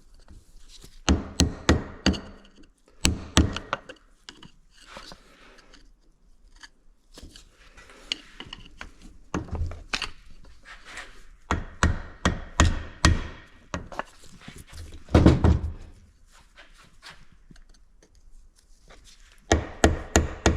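Hand tools knocking and tapping on metal engine parts: short clusters of sharp strikes a few seconds apart, with quieter clinks and handling between them.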